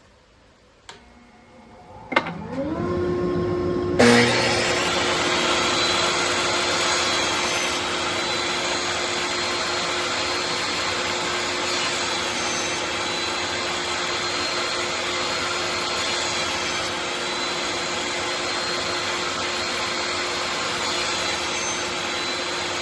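Table saw switched on, its motor winding up to a steady whine. About two seconds later a loud steady rushing noise joins and carries on with it until it stops abruptly.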